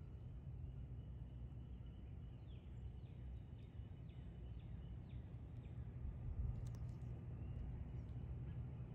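Quiet woodland ambience: a low steady rumble, with a bird calling a run of about seven quick falling notes from about two to five seconds in.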